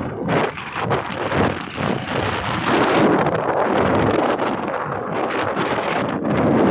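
Rushing floodwater of a swollen river, heard as a continuous noise, with wind buffeting the microphone in uneven gusts.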